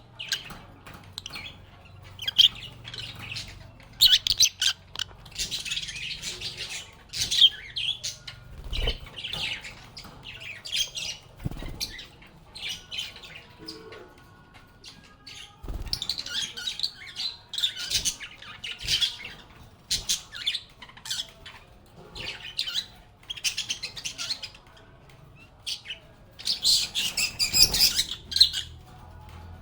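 Several lovebirds chirping and squawking in quick, overlapping bursts of high-pitched calls, with a few short low thumps among them.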